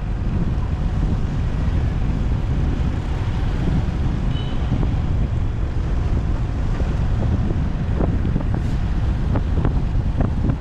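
Wind buffeting the microphone on a moving motorbike, with its engine running underneath; a few short sharp ticks in the second half.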